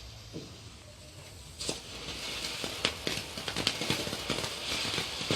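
Small, light firecrackers (traques) going off in a rapid, irregular string of pops and crackles, starting about a second and a half in.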